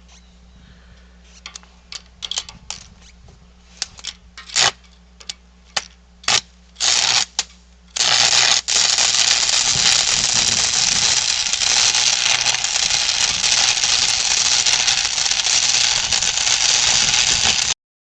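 Scattered sharp clicks and knocks of metal work, then about eight seconds in an arc welder strikes up on steel and crackles steadily for about ten seconds before stopping abruptly near the end.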